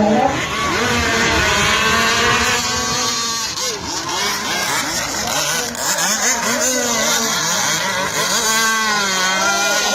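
Small two-stroke engines of several radio-controlled Thai long-tail racing boats running at high revs, their pitches rising and falling as they race.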